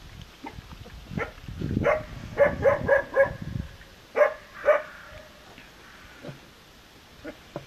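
Four-week-old Turkmen alabay (Central Asian Shepherd) puppies giving short, high-pitched yaps: a quick run of about six, then two more a second later, over low rustling.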